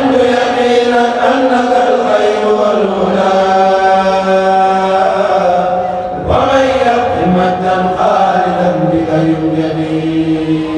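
A kourel chanting group singing a Mouride khassida unaccompanied, in long held, drawn-out notes. One phrase ends about six seconds in and the next begins.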